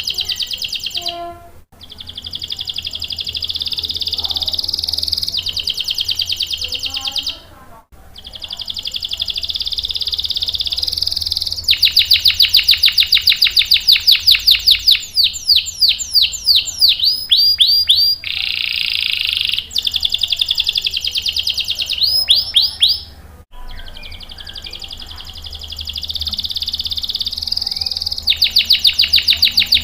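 Domestic canary singing in long trilled phrases of several seconds each, separated by brief breaks. Around the middle comes the loudest stretch: a run of fast, sharp repeated notes that slows into downward-sweeping notes.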